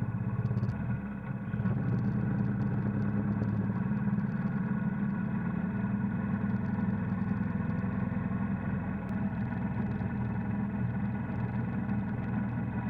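Royal Enfield Bullet Electra's single-cylinder engine running while the motorcycle is ridden along the road. It eases briefly about a second in, then pulls steadily.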